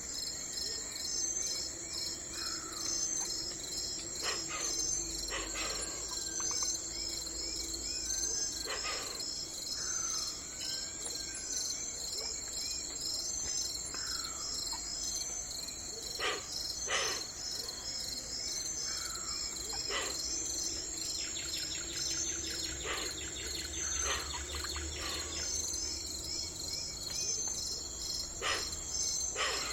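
A steady, high chorus of chirping insects, pulsing throughout, with short bird calls scattered over it and a rapid trill about two-thirds of the way through.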